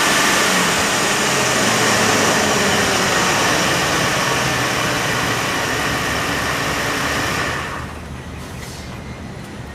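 2008 Ford F-250 pickup engine running at a steady, slightly elevated speed that eases gradually. About eight seconds in, the sound drops away abruptly, leaving a much quieter low hum.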